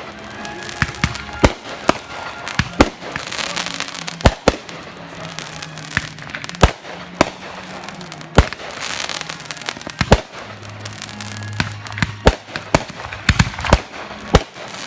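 Aerial fireworks display exploding: a rapid, irregular series of sharp bangs throughout, with stretches of crackling hiss around four and nine seconds in.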